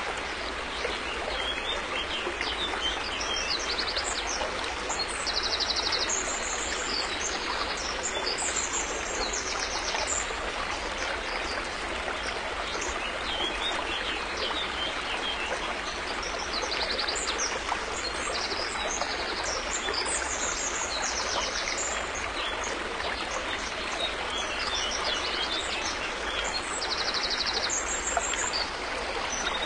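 River water flowing steadily, a continuous rushing. Birds chirp high above it, with short quick trills scattered throughout.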